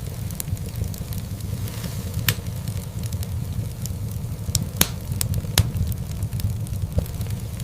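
Wood fire in a fireplace burning with a steady low rumble and scattered sharp crackles and pops, the loudest about two seconds and about five seconds in.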